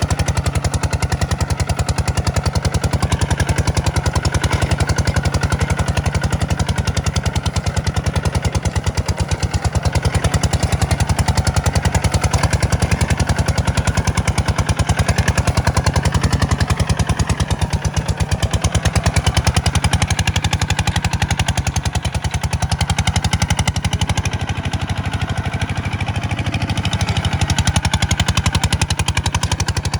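Tractor's diesel engine running steadily, a fast, even chugging of firing pulses, as it pulls a plow through sandy soil.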